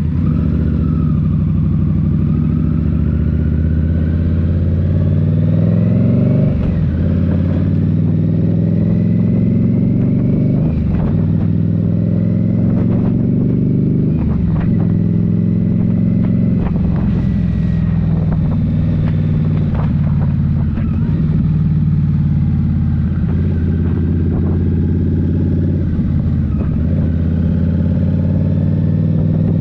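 Indian Scout Rogue's 69 cubic-inch V-twin running through a Rinehart slip-on exhaust while riding, its pitch climbing and then dropping back sharply several times as the throttle is worked.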